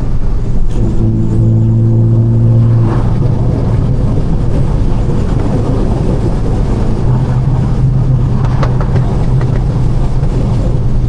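Straight-piped BMW 428i's turbocharged four-cylinder engine running loud under way, holding a steady droning pitch for a couple of seconds near the start and again through the second half, over heavy road and exhaust noise.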